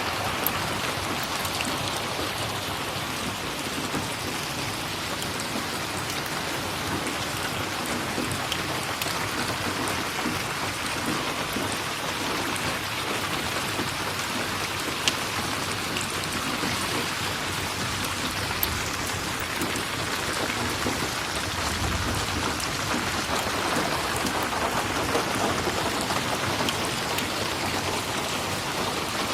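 Steady rain falling, an even hiss with a few sharp single ticks scattered through it and a short low rumble about two-thirds of the way through.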